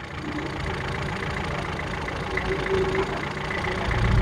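Ford Figo's petrol engine idling steadily, with a deeper rumble coming in near the end. The engine is under test for misfiring and stalling.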